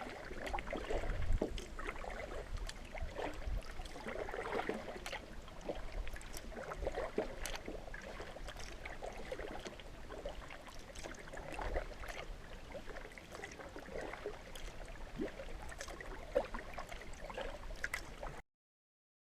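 Water splashing and lapping irregularly around a cedar strip canoe out on a lake, with a low rumble underneath; it cuts off suddenly near the end.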